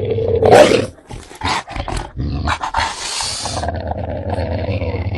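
Fierce dogs growling and barking, the loudest burst about half a second in, followed by short sharp barks and continued growling.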